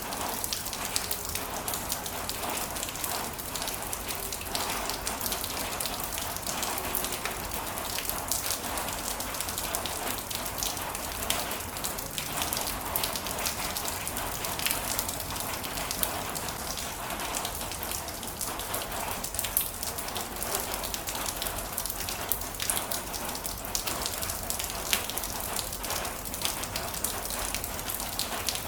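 Heavy rain falling steadily, with many sharp drops pattering on a hard surface.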